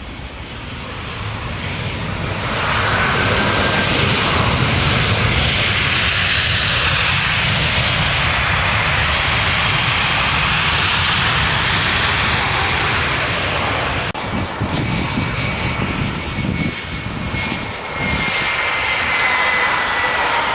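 Jet airliner flying low overhead on landing approach. The engine noise swells over the first three seconds into a loud, steady rush, then drops suddenly about fourteen seconds in, leaving a thin engine whine that falls in pitch as the aircraft passes.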